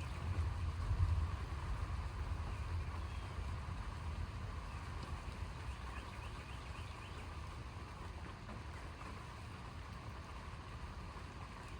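Low rolling rumble of distant thunder, loudest in the first couple of seconds and slowly dying away.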